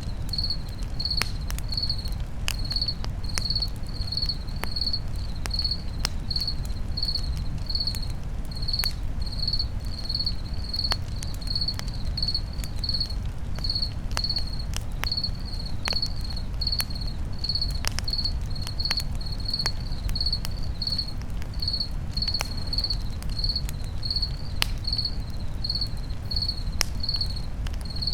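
Crickets chirping steadily, about two chirps a second, over a crackling campfire with sharp scattered pops and a low rumble of burning.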